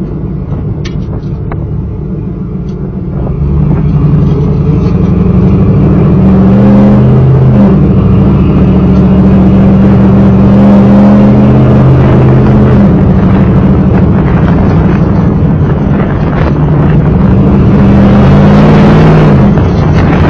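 1995 Chevrolet Camaro Z28's 5.7-litre LT1 V8 running through a Flowmaster exhaust. It gets much louder about three and a half seconds in and holds a loud exhaust note, whose pitch steps up and down a few times.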